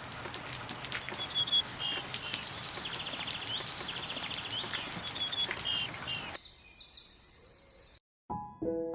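Small birds chirping and trilling over a steady outdoor background hiss. About six and a half seconds in, the hiss drops away and a higher, faster trilling call continues alone. After a moment of dead silence, soft piano music begins near the end.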